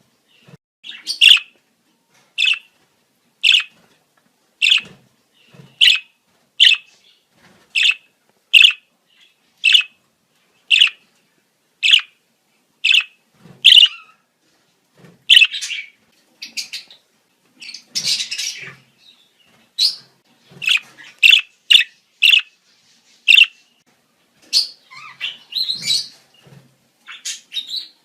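Budgerigars calling in breeding season: short, sharp chirps about once a second, giving way about halfway through to denser warbling chatter.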